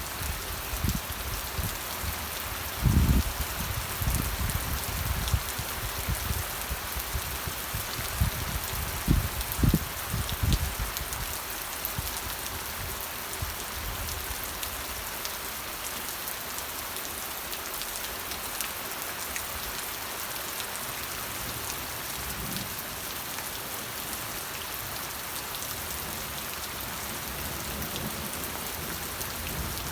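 Rain falling steadily in a dense, even hiss of drops, with a few dull low thumps in the first ten seconds or so.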